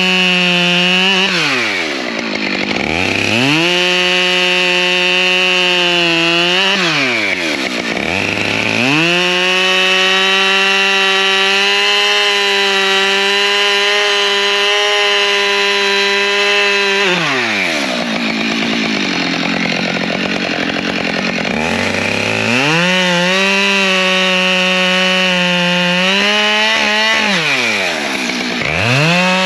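Two-stroke chainsaw running at high revs, its engine note dropping steeply and climbing back up four times as the throttle is let off and opened again.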